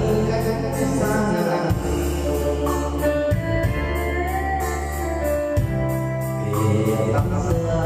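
Instrumental music in an electronic organ keyboard voice: a melody over sustained bass notes, with a steady beat.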